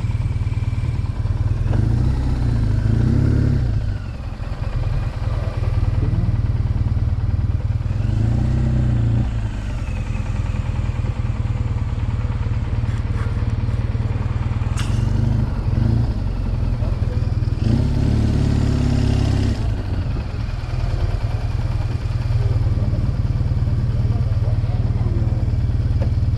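BMW R1200GS boxer-twin motorcycle engine running steadily at low revs, swelling a few times, with a single sharp click about halfway through.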